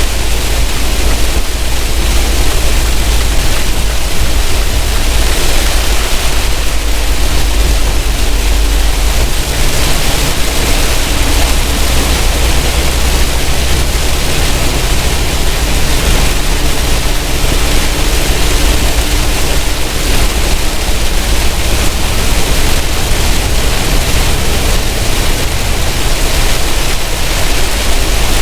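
Semi truck driving on a wet highway: a steady, loud hiss of road and wind noise over a low engine drone.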